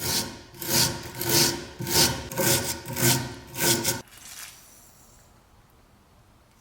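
Hand tool worked back and forth in about seven quick scraping strokes, roughly two a second, with a faint metallic ring; the strokes stop about four seconds in.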